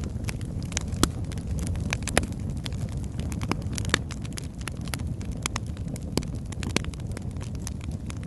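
Wood fire burning in a fireplace: a steady low rumble of flames with irregular sharp crackles and pops from the logs, several a second, a few louder snaps among them.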